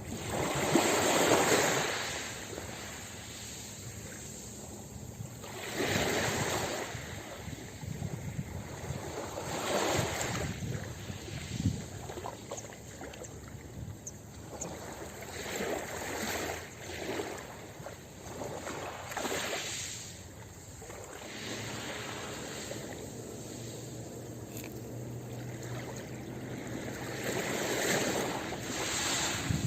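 Ocean waves breaking and washing up on a beach, swelling and falling back in irregular surges a few seconds apart.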